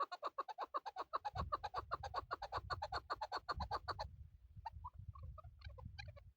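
Chukar partridge calling a rapid, evenly repeated series of clucking notes that stops about four seconds in, followed by a few scattered, softer single notes. A low rumble runs underneath from about a second in.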